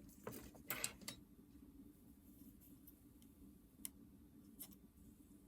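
Near silence over a faint low hum, broken by a few light clicks: a short cluster about a second in and two single ticks near the end.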